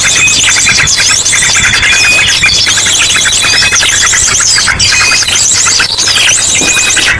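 Bird-lure recording: a loud, dense chorus of small birds chattering, mixed with ashy drongo song in rapid high-pitched trilled bursts that repeat every second or so. A thin, steady high tone sits beneath the calls.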